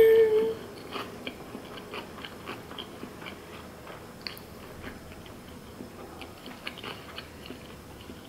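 A person chewing a mouthful of sushi roll with lips closed, close to the microphone: soft, irregular mouth clicks and smacks, a few a second. It opens with the tail of a hummed "mmm" that stops about half a second in.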